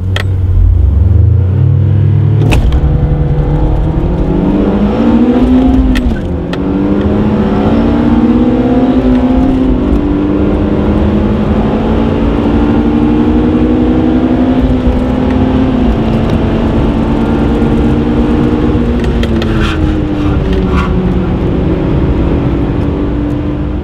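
Toyota Altezza RS200's 3S-GE four-cylinder engine, heard from inside the cabin, accelerating hard from a standstill: the pitch rises, drops back at each gear change, then holds fairly steady at speed.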